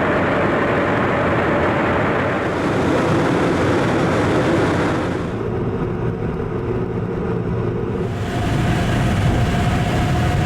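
Loud, steady mechanical roar, like an engine running, that changes character abruptly about five seconds in and again about eight seconds in.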